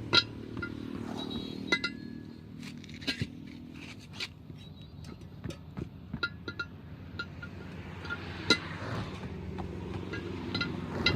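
Irregular light metallic clinks and taps, steel tools striking and rattling against metal, some with a short ringing note. A low steady engine hum runs underneath.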